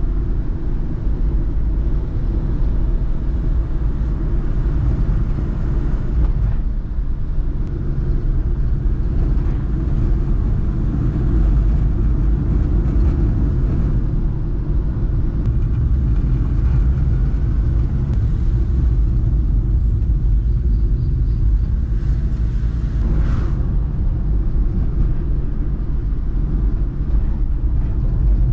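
A loud, steady low rumble throughout.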